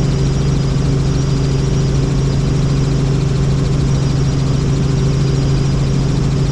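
Helicopter in flight: a steady, loud drone of the rotor and engine with a constant low hum.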